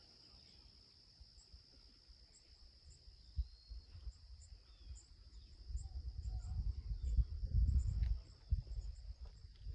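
Steady chorus of crickets, one continuous high trill, with faint short high chirps scattered over it. From about six seconds in, a louder low rumble joins for a few seconds.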